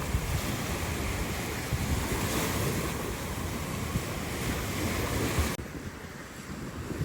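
Rough sea waves surging, with wind buffeting the microphone. The noise drops suddenly to a quieter level about five and a half seconds in.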